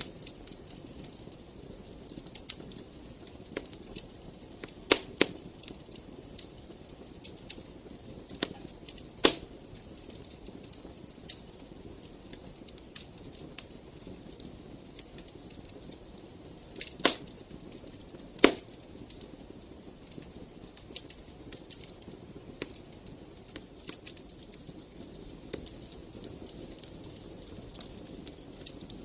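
Fireplace fire crackling: a steady run of small crackles over a low hiss, with four louder pops spread through it.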